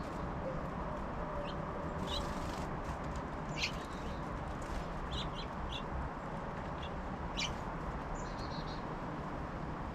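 Small songbirds at a feeder giving scattered short, high chirps and call notes, with a quick run of notes near the end, over a steady low background hum.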